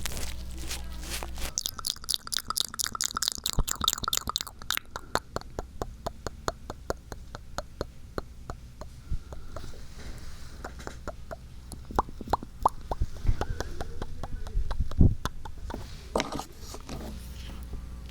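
Close, crisp ASMR trigger sounds on a binaural microphone: a fast run of small clicks and taps for a few seconds, then slower scattered clicks with one louder knock near the end.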